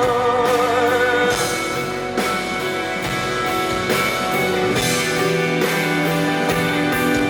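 Live band music: a held sung note with vibrato fades out about a second in, then guitar chords and drums carry on with no singing.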